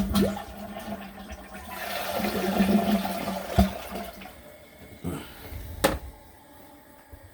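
Delta toilet flushing: a rush of water that builds, peaks about two to three seconds in, then drains away. Two sharp knocks follow, one as the rush fades and one near the end. It is a test flush of a freshly reseated tank.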